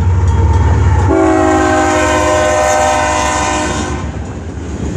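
Diesel freight locomotive air horn, several notes sounding together, blown once for about three seconds starting a second in, over the low rumble of the lead locomotives' engines. Near the end the horn stops and the rolling noise of the passing train takes over.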